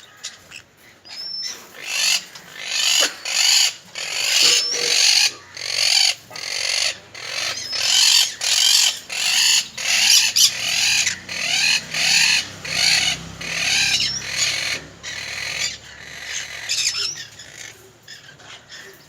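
An egg-bound conure screeching in harsh, repeated squawks about once a second. The squawks fade near the end, with a few short rising chirps.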